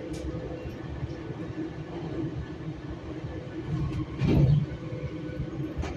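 Metrolink commuter train rolling along at speed, heard from inside a passenger car: a steady rumble of wheels on the track, with a brief louder bump about four seconds in.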